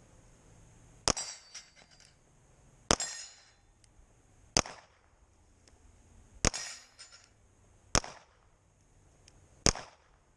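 Six pistol shots fired at a slow, even pace about one and a half to two seconds apart, several followed by a brief high ring of struck steel plates.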